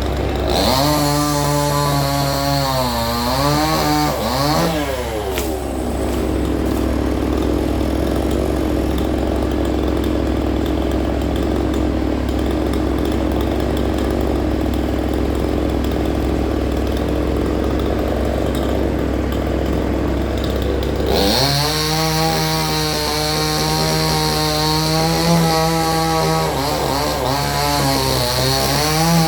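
Chainsaw running, its engine pitch rising and falling as it revs in the first few seconds. A steadier, rougher stretch follows, and the saw revs high again from about twenty seconds in.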